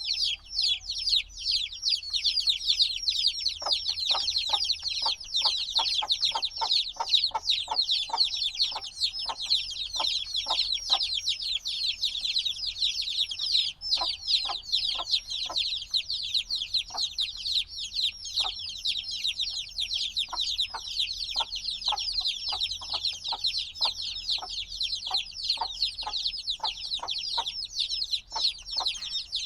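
A brood of chicken chicks a few days old peeping all at once, a dense chorus of high, falling chirps. From about four seconds in, runs of shorter, lower-pitched pulses come and go beneath the chirping.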